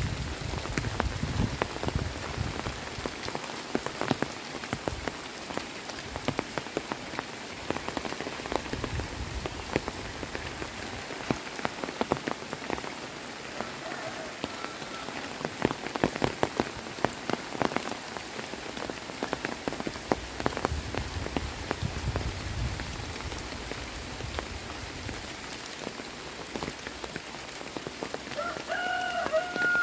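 Heavy rain falling steadily, with many individual drops striking close by as sharp ticks. A faint short pitched call sounds about midway, and a clearer one lasting about a second comes near the end.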